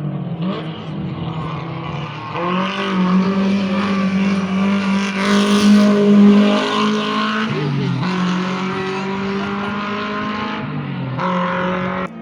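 Rally car engine revving hard under acceleration, its pitch climbing and dropping sharply at gear changes about three-quarters of a second apart from the loudest point and again near 11 s. It is loudest about midway and cuts off abruptly near the end.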